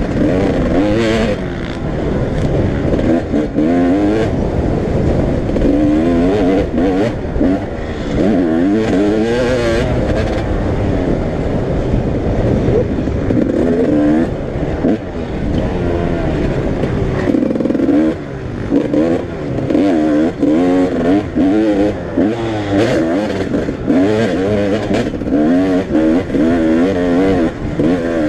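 Several motocross bikes racing round a dirt track, engines revving up and falling back over and over as riders shift and work through corners and jumps.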